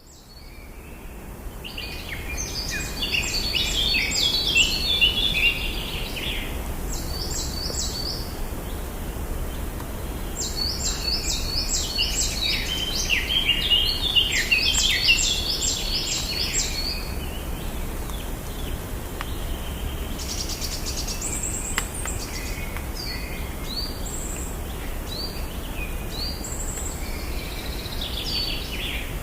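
Birdsong sound effect: songbirds singing in quick runs of repeated chirping notes, busiest in the first half and sparser later, over a steady low background rumble.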